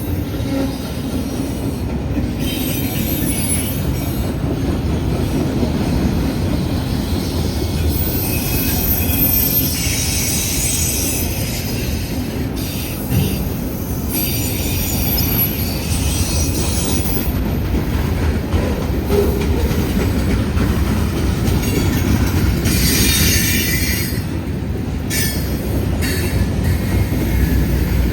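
A long freight train of auto racks and mixed cars rolling past, its wheels giving a steady heavy rumble. High-pitched wheel squeal comes and goes several times over it.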